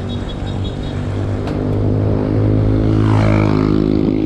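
A motor vehicle's engine running close by, growing louder about two seconds in.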